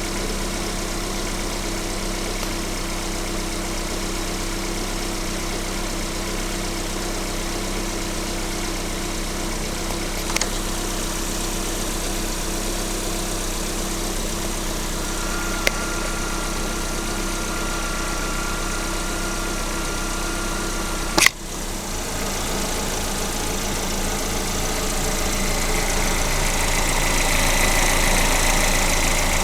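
Lada VAZ-21127 1.6-litre 16-valve four-cylinder engine idling steadily. Sharp clicks are heard twice, then a louder knock about two-thirds of the way through, after which a higher hiss builds up.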